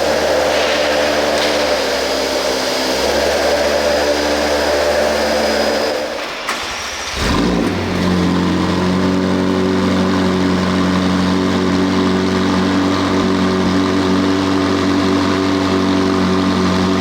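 The McLaren 765LT's twin-turbocharged 4-litre V8 running at a steady idle. About six seconds in the sound dips briefly, there is a short blip, and the engine settles back into a steady idle.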